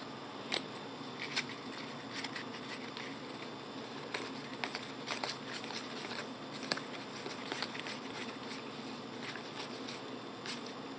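Trading cards being handled and sorted by hand: faint rustling with many scattered light clicks and taps of card on card.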